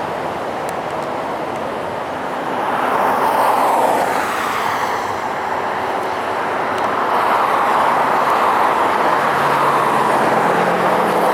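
Sacramento light rail train rolling past, a steady rushing noise of wheels on rail that swells twice.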